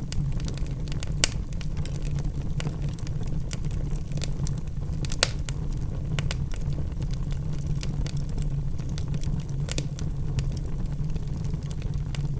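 Wood logs burning in a fireplace, crackling and popping over a steady low rumble of the fire, with louder pops about a second in, about five seconds in and near the end.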